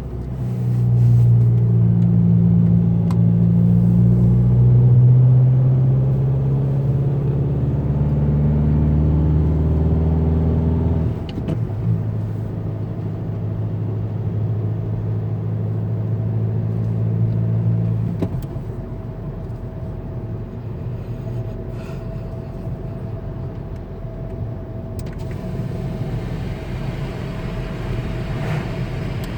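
2010 Jetta TDI's 2.0-litre four-cylinder turbodiesel running through a 3-inch straight-pipe exhaust while driving, a deep drone. It is loudest in the first ten seconds, drops off suddenly about eleven seconds in, holds a steadier drone until about eighteen seconds in, then settles to a quieter running sound.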